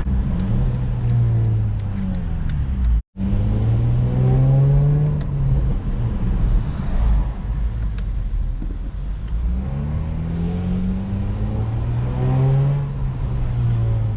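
Acura TL SH-AWD's 3.7-litre J37 V6, fitted with an RV6 J-pipe, longtube and Takeda intake, pulling under acceleration: its pitch climbs, then levels off or drops, twice. The sound cuts out completely for a moment about three seconds in.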